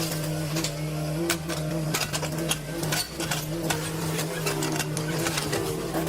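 Excavator engine running with a steady hum, with frequent sharp knocks and clatter from the work.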